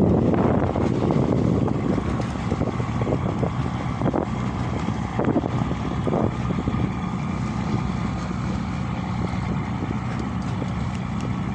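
Ferry boat engine running with a steady low drone, with wind noise on the microphone that is strongest in the first second or two.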